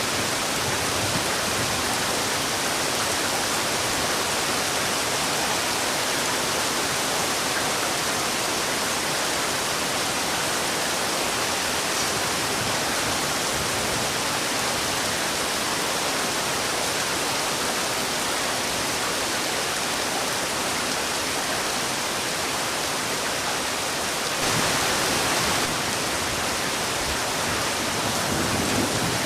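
Heavy rain falling steadily, a dense even hiss that swells briefly for about a second a few seconds before the end.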